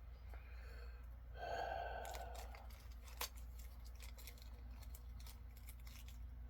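Small clicks and light rustling of packaging and pins being handled, with a brief squeak-like pitched sound about a second and a half in.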